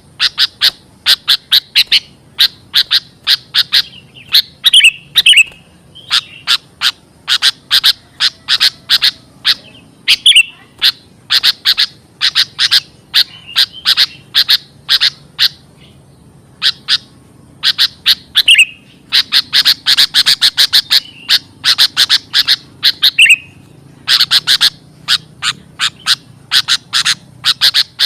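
Sooty-headed bulbul (kutilang) calls: fast runs of short, sharp chirps, several a second, broken by brief pauses and a few slurred notes.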